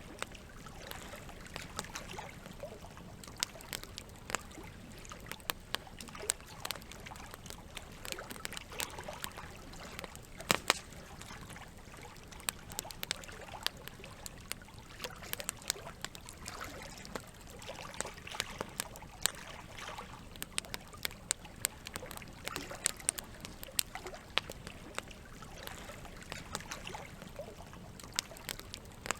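Campfire crackling, with many sharp pops and snaps, the loudest about ten seconds in, over a steady trickle of running water.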